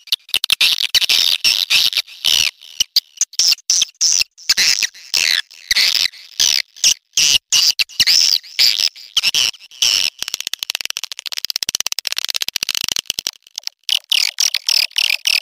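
Swiftlet mating calls on a playback lure track: rapid, high twittering chirps and dry clicking trills. About two-thirds of the way through, a fast, even rattle of clicks lasts a few seconds.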